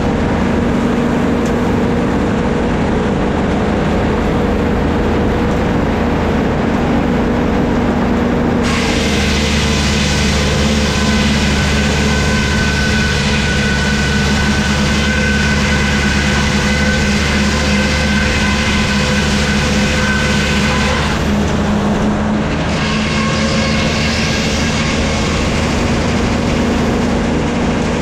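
Engine-driven sawmill running steadily, with the saw cutting through a log from about nine seconds in to about twenty-one seconds, adding a hiss and a high whine over the engine, and again briefly near the end.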